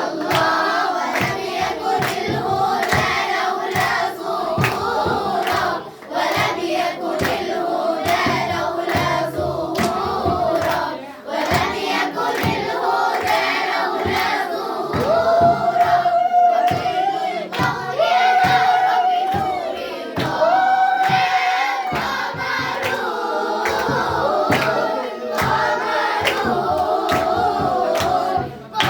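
A group of young voices singing an Islamic inshad (devotional song) together over a steady percussive beat, with a few long held notes midway.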